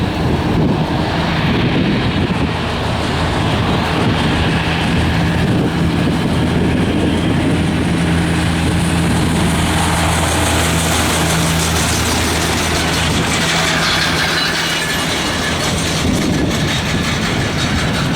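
Boeing 737-800 jet engines running with a steady low hum, and a higher hiss that grows stronger from about ten seconds in.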